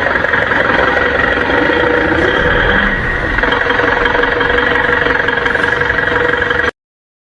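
An engine or machine running steadily with a whine, which cuts off suddenly near the end.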